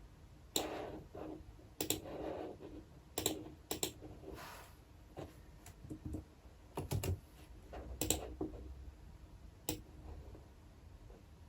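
Computer keyboard being typed on in scattered, irregular keystrokes, some in quick little runs, with short pauses between them.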